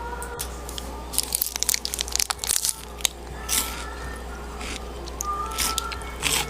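Close-up eating sounds: biting and chewing crunchy food, a dense run of crunches about a second in, then scattered crunches.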